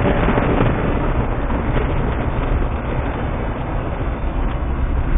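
Chevrolet Silverado pickup running, a steady low engine rumble mixed with road and wind noise.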